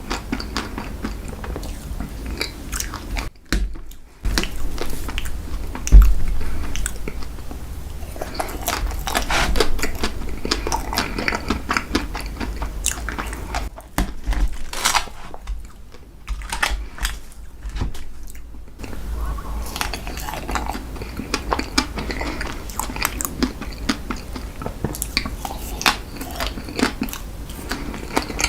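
Close-up chewing and biting of ice cream dessert cake, with crunchy crackles from its crisp layer throughout and a single louder knock about six seconds in.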